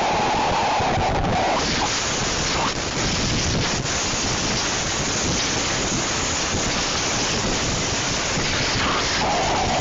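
Hurricane wind and driving rain: a loud, steady rush of noise, with a brighter whistling band in the first second and a half and again near the end.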